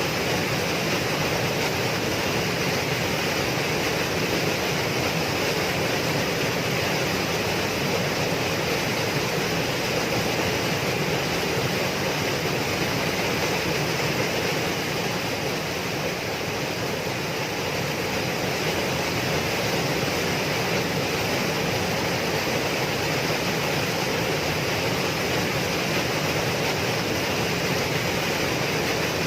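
Waterfall: a steady rush of falling water, dipping slightly in the middle.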